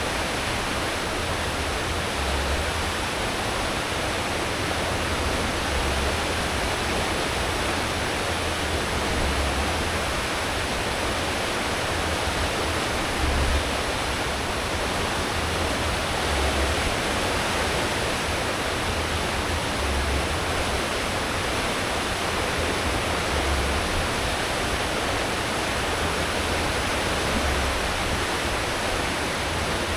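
Steady rushing churn of a cruise ship's wake stirred up by its propellers at full speed, over a deep engine rumble that swells about every three to four seconds.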